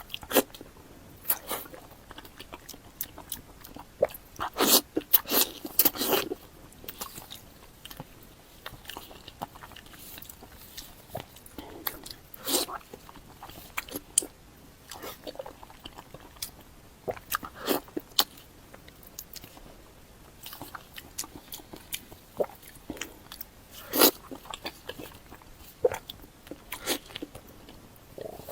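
Close-miked eating sounds: a person biting and chewing food, with irregular wet mouth clicks and smacks.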